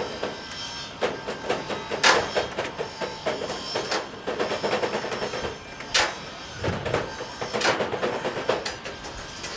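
Rapid, irregular metallic clattering and tapping from sheet-metal work on a chimney cladding, with louder single knocks about two, six and seven and a half seconds in.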